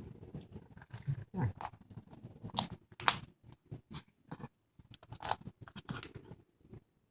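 A cat chewing and crunching on a squirrel: irregular crunches and bites, the loudest about three seconds in.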